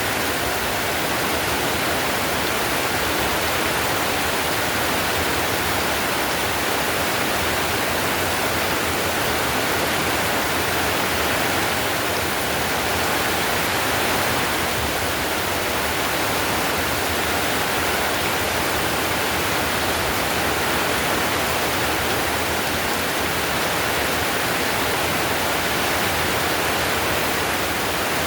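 Heavy rain falling steadily on a tile roof: a dense, even hiss of drops with no breaks or changes.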